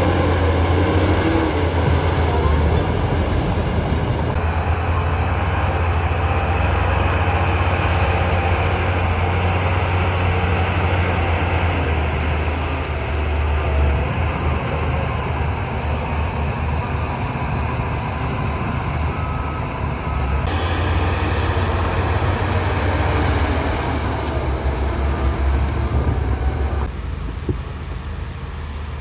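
Heavy earthmoving machinery at work: large diesel engines running steadily with a deep, constant hum under a dense mechanical clatter. Near the end the higher noise falls away and the engine is left running lower.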